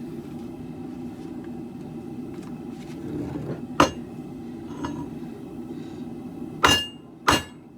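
Hammer striking steel, with a bright metallic ring: one blow about four seconds in, then two sharp blows near the end, over a steady low rushing noise.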